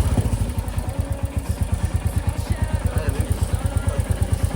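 Royal Enfield Meteor 350's single-cylinder engine idling with an even, rapid beat. A tappet noise is still present, which the owner hears as somewhat reduced after an oil top-up; the mechanic put it down to low oil.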